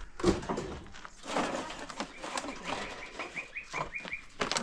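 A bird chirping: a quick run of short, even chirps, about seven a second, in the second half, over rustling noise and a few knocks.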